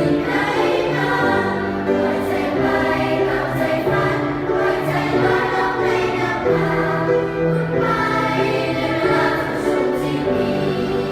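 Choir singing a choral arrangement in several voice parts, with sustained, overlapping sung notes throughout.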